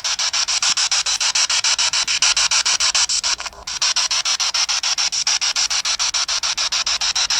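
Spirit box sweeping through radio frequencies: choppy static in rapid, even pulses about ten a second, with a brief dropout about three and a half seconds in.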